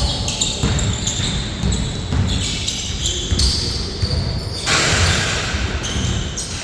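Basketballs bouncing in irregular thumps during a pickup game. A rush of hissing noise comes in about five seconds in and lasts nearly two seconds.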